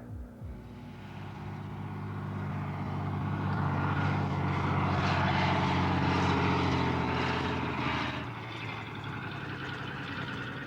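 Propeller aircraft passing by: its engine hum swells over several seconds, is loudest around the middle, then fades away.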